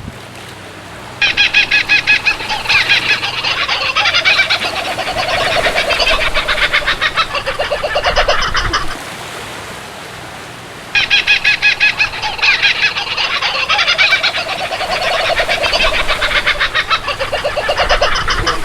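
Birds calling in a dense run of rapid, high chattering notes lasting several seconds, then the same stretch of calls heard again after a short pause.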